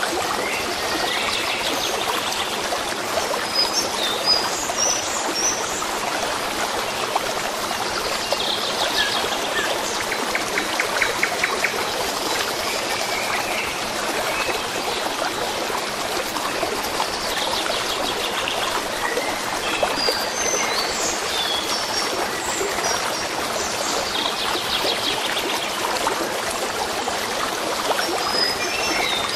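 A stream of water running steadily, with small songbirds chirping over it now and then and giving several short trills.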